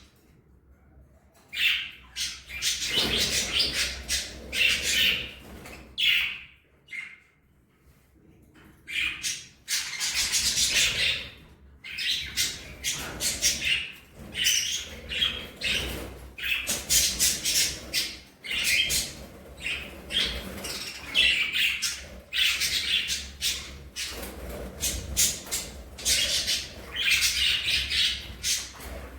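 Budgerigars chirping and chattering in quick bursts of high squawks and twitters, with two short lulls, near the start and about a quarter of the way in.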